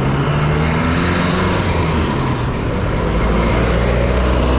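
Road traffic: motor vehicles running close by, a steady low engine hum over road noise, with one engine note rising slightly in pitch in the first couple of seconds.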